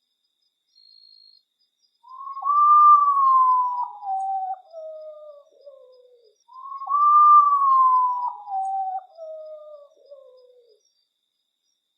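Common potoo singing its mournful song twice: each phrase is a loud whistle that falls in a string of notes from high to low over about four seconds.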